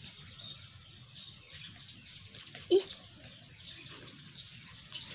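Small birds chirping on and off, many short chirps, with one brief louder call about halfway through.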